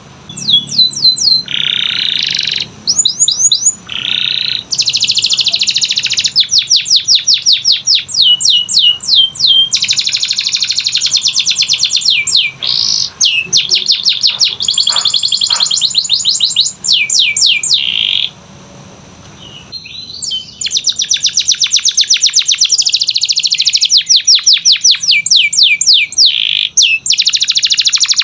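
Domestic canary singing a long song of fast trills and rolls made of rapidly repeated chirping notes. It breaks off for about two seconds some two-thirds of the way through, then resumes.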